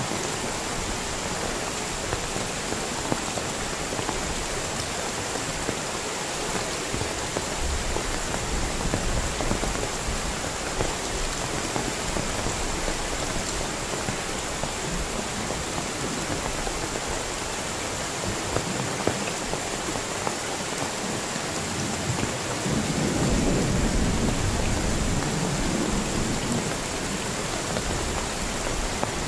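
Heavy rain falling steadily, with many small drop impacts, and low rumbles of thunder, the longest and loudest about 23 seconds in.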